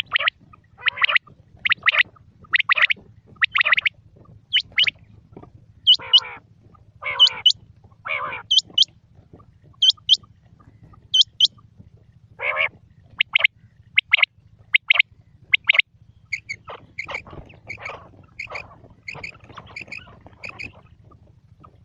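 Quail (batair) calling over and over: short, sharp, high notes about one a second, some with a quick upward flick, breaking into a faster run of softer notes near the end. A faint steady low hum runs underneath.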